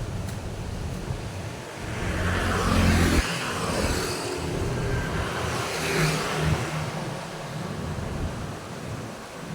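Road traffic with vehicles passing by, engines running. The loudest pass-by swells up about two seconds in and peaks around three seconds, and another vehicle passes around six seconds.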